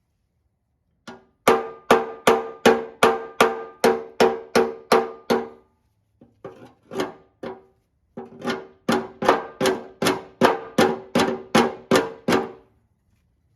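A hammer striking steel, ringing on every blow: two runs of rapid, even blows, about two and a half a second, with a few lighter taps in the pause between them.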